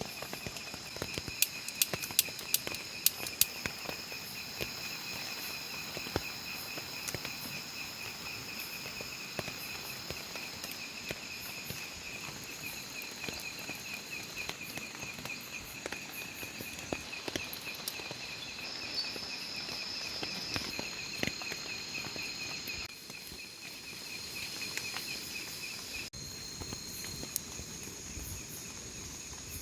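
A chorus of forest insects, crickets among them, trilling steadily in several high pitches. Scattered sharp clicks and taps come through, most of them in the first few seconds. The chorus thins a little about three quarters of the way through.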